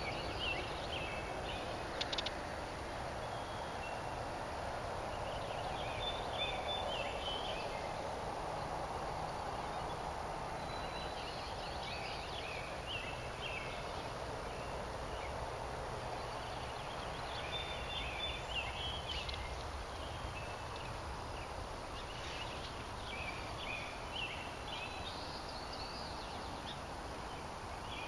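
A songbird singing short chirping phrases every few seconds over a steady background hiss.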